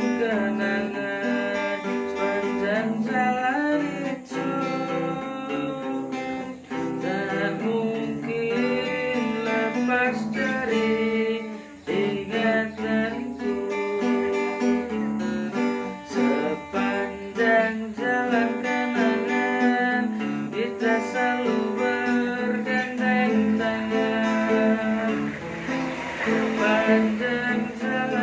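Instrumental music led by guitar: strummed acoustic guitar under a melodic lead line, with no sung words.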